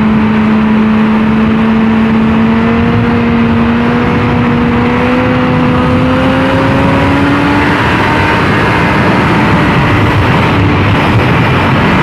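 Honda CBR600RR's inline-four engine pulling under steady throttle, its pitch rising slowly for about eight seconds and then changing, heard over a constant rush of wind noise.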